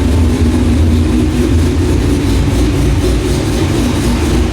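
Vehicle engine running with a steady, loud low rumble; it cuts off suddenly at the end.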